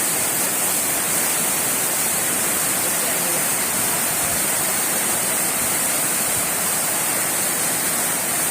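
Fast-flowing floodwater rushing, a steady, unbroken noise of water.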